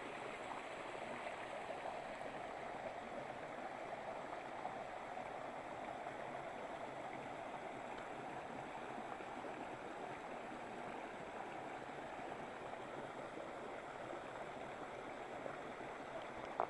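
Steady rushing of a mountain river's water over rocks and falls.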